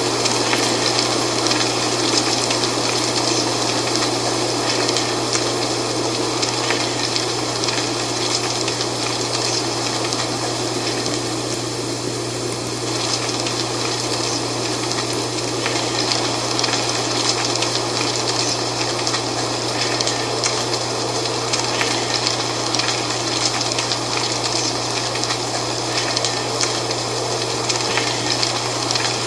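Wind with dry fall leaves rustling, a continuous crackly hiss with slight swells, over a steady low hum.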